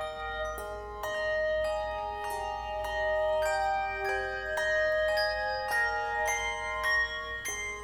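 Tuned bells playing a melody in chords: notes struck a few times a second, each ringing on and overlapping the next.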